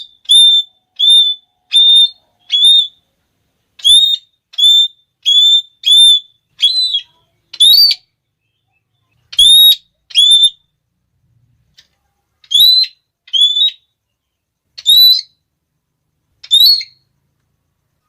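Red-cheeked parrot (Geoffroyus geoffroyi) giving its repeated 'klee' call. Short, shrill, high notes come in runs of several at a time, some ending in an upward lift, with silent pauses between the runs.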